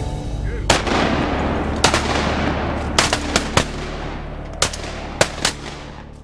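Several hunters firing shotguns in a volley: about ten sharp shots over five seconds, some in quick pairs, over a steady noisy background that cuts off suddenly at the end.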